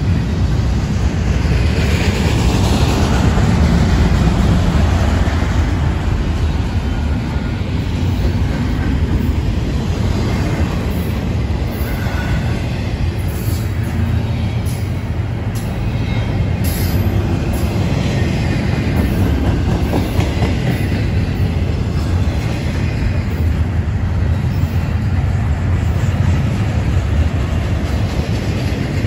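Double-stack intermodal freight train's loaded container well cars rolling past: a steady, loud low rumble of steel wheels on rail, with scattered clicks and clacks near the middle.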